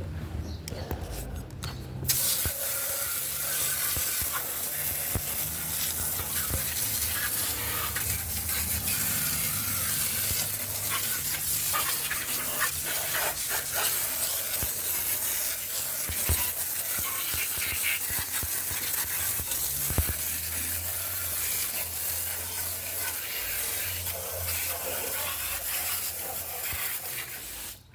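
Pressure washer spraying in a long, steady hiss over the low hum of its running pump motor, the spray starting suddenly about two seconds in and cutting off abruptly near the end.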